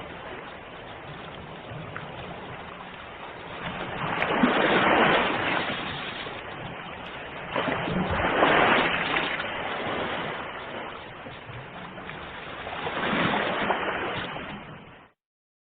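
Ocean surf with a steady wash and three waves swelling and breaking about four seconds apart. The sound cuts off abruptly near the end.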